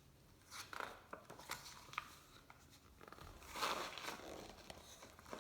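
Faint rustling and soft clicks of a picture book being handled and its paper pages turned, with a longer rustle a little past halfway.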